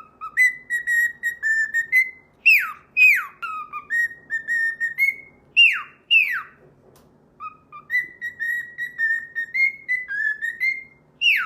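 Parrot whistling: runs of short, level notes on about the same pitch, broken several times by quick whistles that swoop sharply downward.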